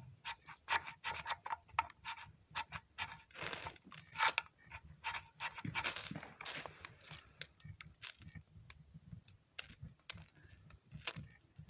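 Fire-starting kit scraped repeatedly to light tinder: a run of quick, irregular sharp scrapes and clicks, with longer rasping strokes about three and a half and six seconds in, as a striker is run along a magnesium fire starter.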